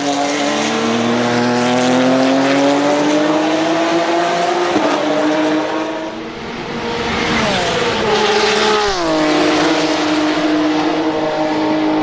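BMW M3 E36 GTR race car's 3.4-litre stroker S50 straight-six engine at full racing revs. The revs climb steadily with a gear change about five seconds in, fall steeply about eight to nine seconds in as the car slows, then pick up again.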